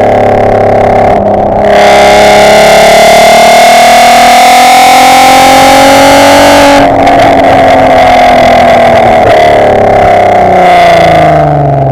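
Mk5 Golf R32's 3.2 VR6 engine through a decat, non-resonated Milltek exhaust, heard from the back of the car: it pulls hard under load, with the pitch climbing slowly for about five seconds. It lets off abruptly, then the revs fall away steadily near the end. It is loud enough to overload the microphone.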